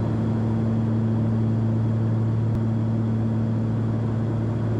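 Cessna 340's two turbocharged six-cylinder piston engines and propellers droning steadily in cruise, heard from inside the cabin as a constant low hum with a steady pitch.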